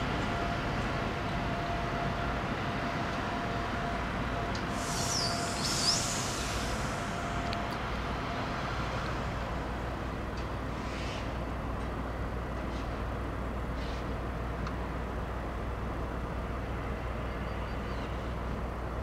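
Intercity train pulling out of the station, a steady rumble of running noise. A faint held tone fades out about eight seconds in, and a brief high hiss with a squeal comes about five seconds in.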